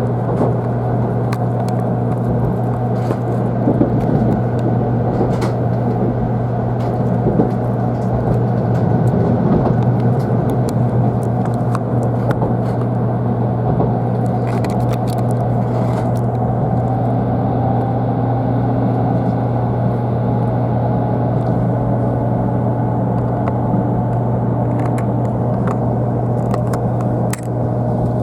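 Cabin running noise of a 500 series Shinkansen: a steady rumble with a strong low hum and scattered clicks. From about halfway a faint whine slowly rises in pitch, as the traction motors do when the train gathers speed.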